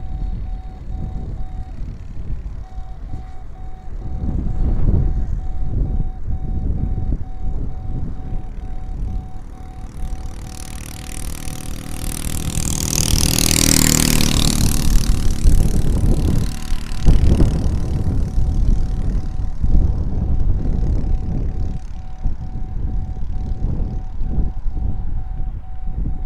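Radio-controlled model plane passing overhead: its motor and propeller sound swell to a peak about halfway through and fade away with a shift in pitch. Strong wind buffets the microphone with a gusty rumble throughout.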